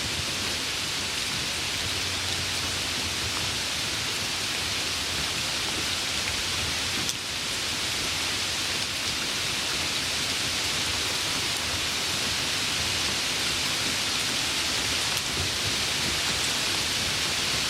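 Steady rain falling, an even hiss that does not let up, with a brief dip about seven seconds in.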